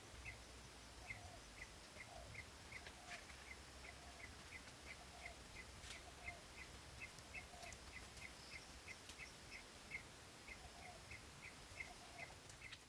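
Faint outdoor animal calls: short high chirps repeating steadily, two or three a second, with a lower call about once a second.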